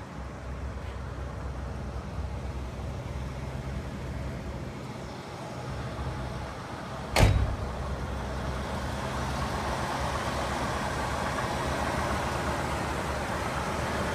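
1977 Cadillac Eldorado Biarritz's V8 running with a steady low hum. A single sharp thump comes about halfway through, and after it a rushing noise grows louder and stays.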